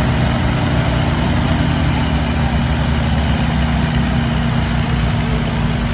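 Mahindra 595 Turbo tractor's diesel engine running at a steady, even speed.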